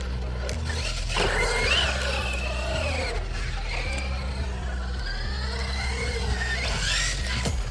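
Brushless electric motor of an RC monster truck whining, its pitch rising and falling with the throttle, over background music with low bass notes.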